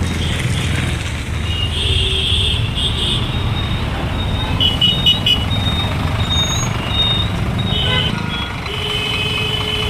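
Road traffic at a bus stand: a steady low rumble of idling and passing engines, with several vehicle horns sounding, a couple of short toots and a longer horn near the end.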